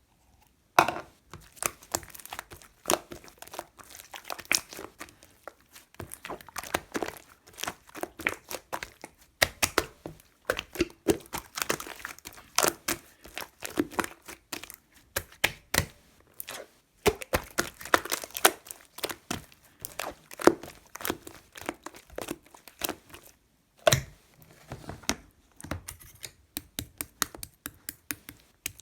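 Rapid, irregular crinkling and sharp clicks of small objects being handled, several a second.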